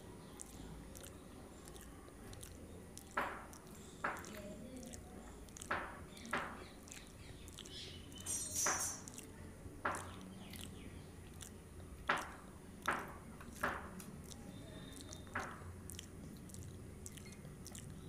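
Close-miked chewing of a mouthful of soft bun and sev, with about ten sharp wet mouth clicks spread through it and a brief crackly crunch about halfway.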